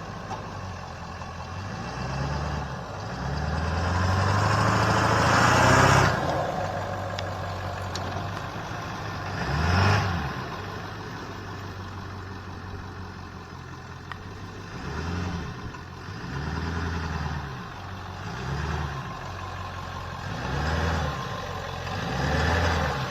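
Pickup truck engine revving up and dropping back again and again as it crawls over rough ground: a longer, louder push in the first six seconds with a rush of noise over it, a short surge around ten seconds in, then shorter revs every couple of seconds toward the end.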